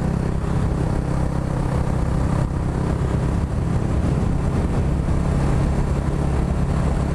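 Yamaha R125's single-cylinder four-stroke engine running steadily at cruising speed, under an even rush of noise.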